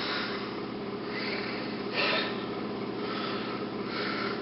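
A person breathing audibly close to the microphone, several hissy breaths with the loudest about two seconds in, over a steady electrical hum.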